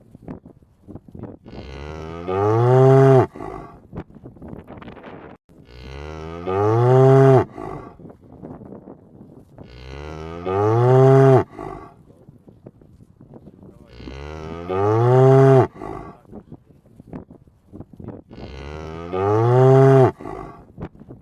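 A cow mooing five times, one long moo about every four seconds, each rising and then falling in pitch in the same way.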